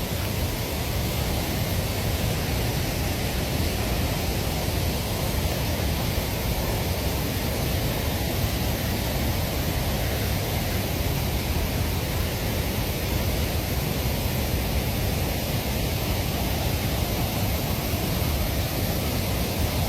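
Steady heavy rain: a continuous, even rush of noise with no breaks or changes.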